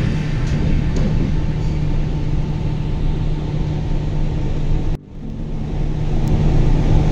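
Passenger train running, heard from inside the carriage: a loud, steady rumble with a low hum. It dips abruptly about five seconds in, then builds again.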